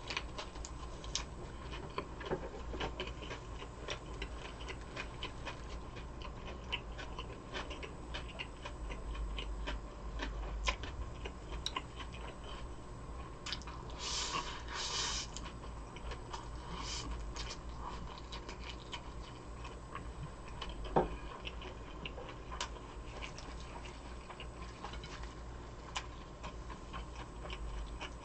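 Close-miked eating sounds: chewing with many small, irregular wet mouth clicks and smacks. There are two short hissing slurps about halfway through and a single thump a little later.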